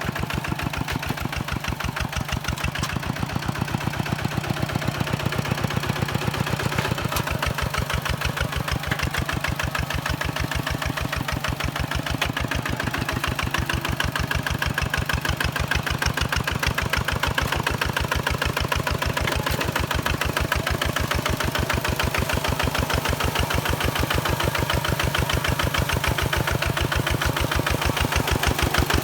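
Kubota diesel engine of a walk-behind tractor running steadily with an even, rapid beat.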